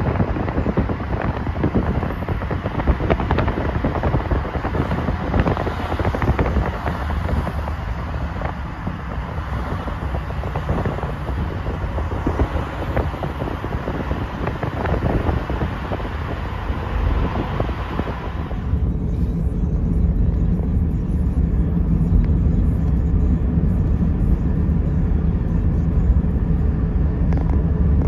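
Road and traffic noise from a moving car: a busy, hissing city-street wash with scattered clatter, then after a sudden change about two-thirds of the way in, the steady low rumble of the car running on the highway, heard from inside the cabin.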